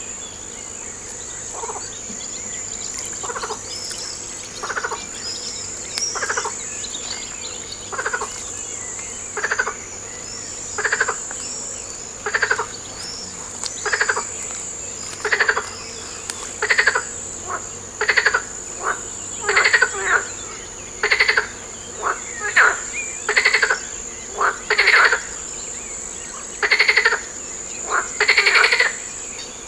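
A frog calling over and over: short, pulsed croaks about every one and a half seconds, getting louder and closer together in the second half. A steady high insect trill runs underneath.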